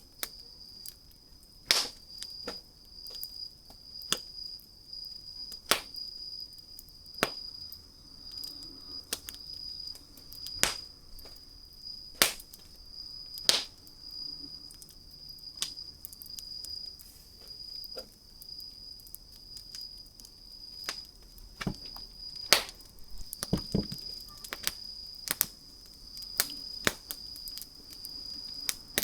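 Wood fire crackling, with sharp pops at irregular intervals, a few standing out louder. A steady faint high whine runs underneath.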